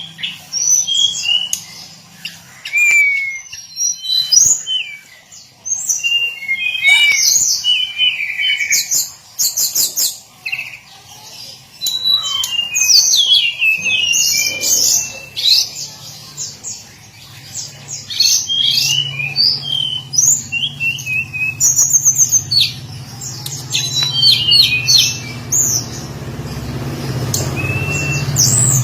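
Hill blue flycatcher singing a busy run of quick high chirps, short trills and sliding whistles. A low steady hum underneath grows louder in the second half.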